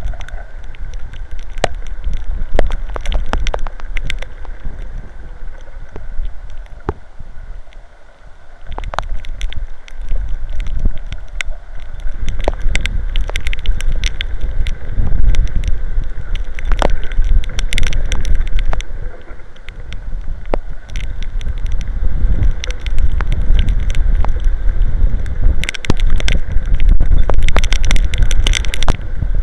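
Strong wind buffeting an outdoor camera's microphone in a heavy rainstorm, a low rumble that rises and falls in gusts and eases briefly about a third of the way in. Many sharp ticks and taps run through it, rain striking near the microphone.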